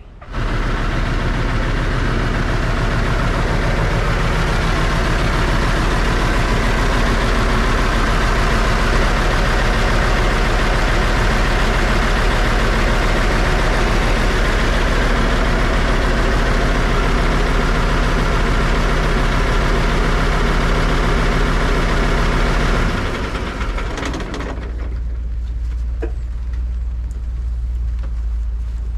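Isuzu Giga dump truck's 12PE diesel engine running loudly with a dense, steady clatter. About 23 s in it drops back to a lower, deep idle.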